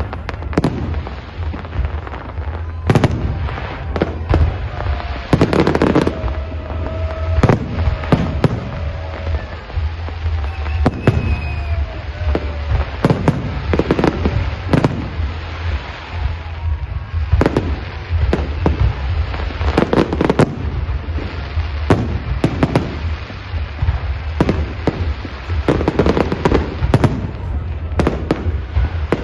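Aerial firework shells of a professional display bursting in rapid, irregular succession, many bangs every few seconds over a steady low rumble.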